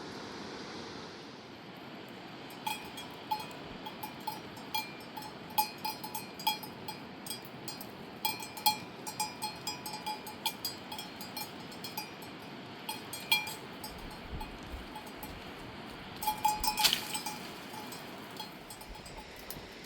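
Small metal bells clinking irregularly, many strikes at the same ringing pitches, with a dense flurry near the end, over a steady background hiss.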